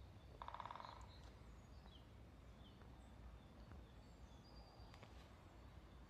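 Faint forest birds calling: a short buzzy call about half a second in, then a few brief high chirps, over a low rumble.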